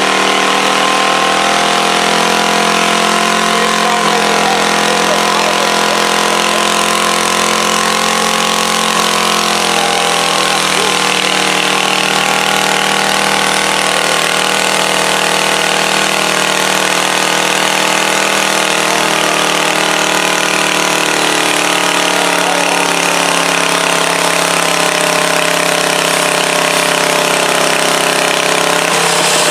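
A motor vehicle engine running steadily, its pitch easing down about a third of the way in and rising again near the end.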